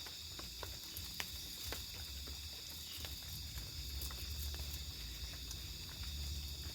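Steady high-pitched chirring of crickets or other night insects in the forest, with scattered light clicks and taps close by.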